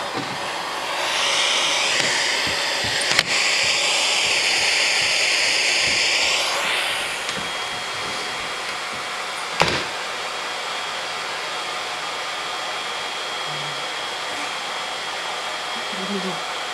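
Vacuum cleaner running with a steady rushing whine, louder and higher for several seconds near the start before settling. A click about three seconds in and a sharp knock near ten seconds.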